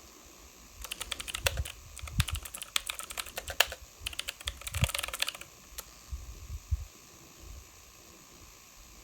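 Rapid, irregular small clicks and taps, with a few soft low thumps, starting about a second in and stopping about five and a half seconds in.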